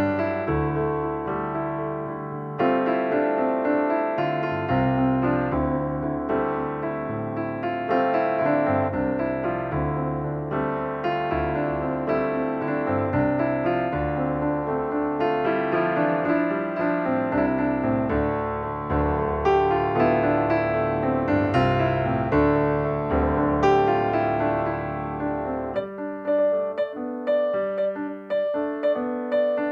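Background piano music, a melody over chords, thinning to sparser single notes near the end.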